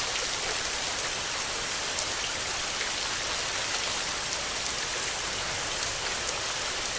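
Steady, dense rain falling on a surface, an even hiss spangled with many small drop ticks.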